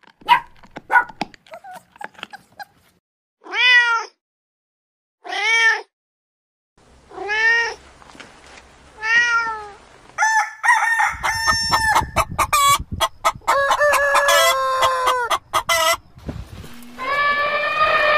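A string of different animal calls: a few brief sharp sounds, then a domestic cat meowing four times, then chickens clucking busily for several seconds, and a long drawn-out call near the end.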